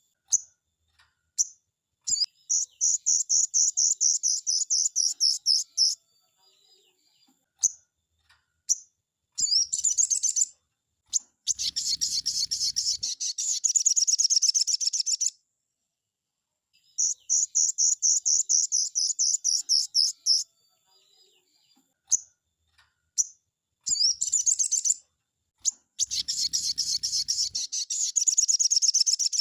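Sogon bird singing loud, high-pitched rapid trills in runs of several seconds, with single sharp chips in the gaps between them. This is the fast, rapid-fire 'nembak' song used as a lure and training recording for sogon birds.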